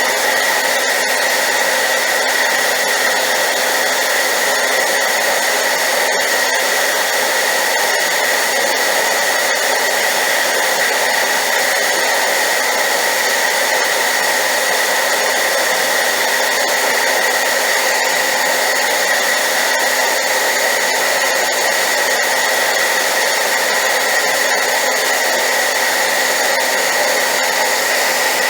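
Hair dryer running steadily on high power: a loud, even rushing blow with a steady high whine from the motor, unchanging throughout.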